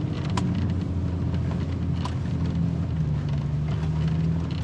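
Vehicle engine and road noise while driving on a rough dirt road: a steady low drone with a few sharp clicks and knocks.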